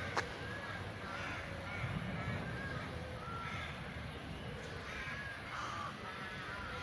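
Several birds calling over and over in short, overlapping arched calls, with a single sharp click just after the start.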